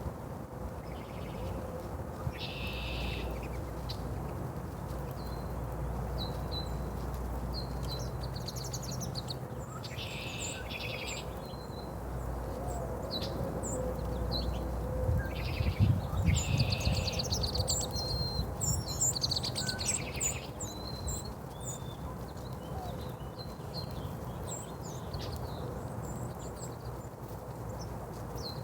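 Small birds chirping and twittering in short, scattered calls, busiest through the first two-thirds and sparser near the end, over a steady low background rumble.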